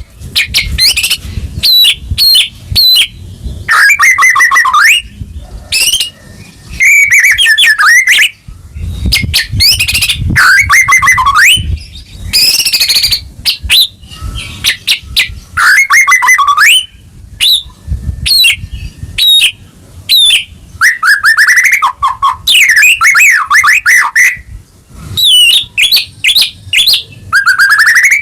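White-rumped shama singing a loud, full song: quick runs of rising and falling whistled notes and rapid trills, delivered in phrases of a second or two with short pauses between them.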